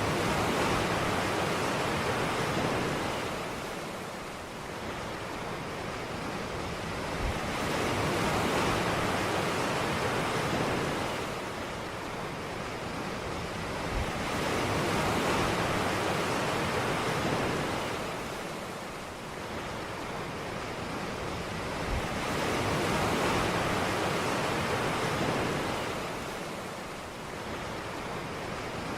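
Ocean waves breaking on a beach, the surf swelling and falling back about every seven to eight seconds, four times over. Each wave opens with a brief low thud.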